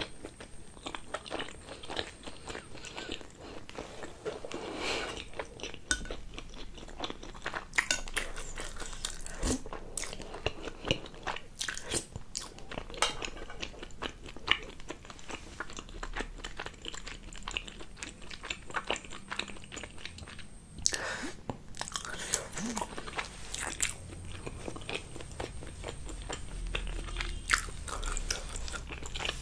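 Close-miked chewing of momo dumplings, with many sharp mouth clicks and smacks coming irregularly throughout.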